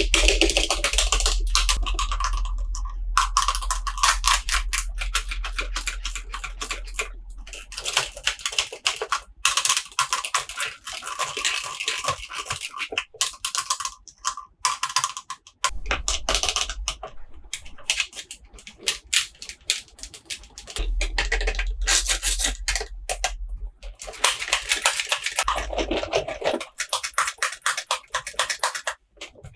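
Plastic toy packaging crinkling and crackling as it is handled and opened, in long runs of dense clicks with short pauses.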